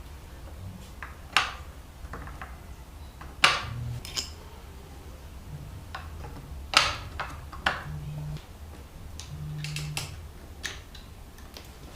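Sharp clicks and knocks at irregular intervals, about half a dozen, over a steady low hum.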